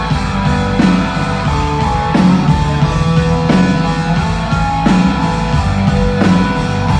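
Rock band playing live: an instrumental stretch of electric guitars, bass and drums with a guitar melody over steady chords, and no singing.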